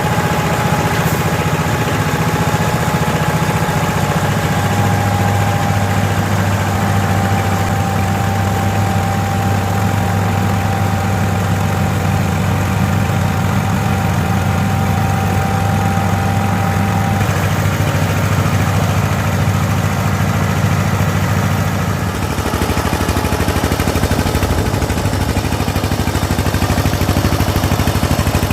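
Diesel engine of a mobile rice milling machine running steadily, with a thin steady whine over it that stops a little past halfway; the engine note shifts slightly near the end.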